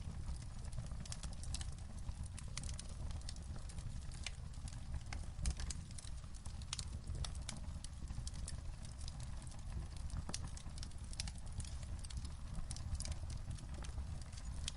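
Wood fire crackling in a fireplace: irregular sharp snaps and pops over a low, steady rumble of the burning logs.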